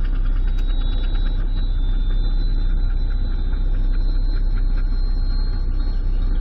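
A car engine idling: a steady low rumble, heard from inside the car.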